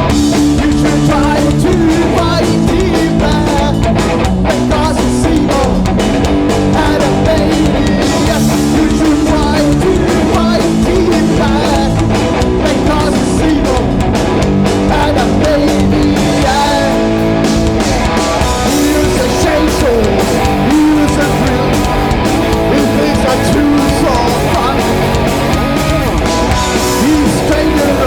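Live punk rock band playing loud and steady: distorted electric guitars, bass and drums, with some singing.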